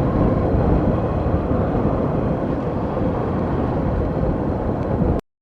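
Steady rumble of a vehicle moving along a road, cutting off suddenly about five seconds in.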